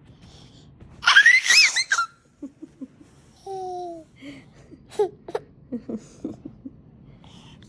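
A toddler laughing with loud, high-pitched squeals about a second in, followed by quieter giggles and babble.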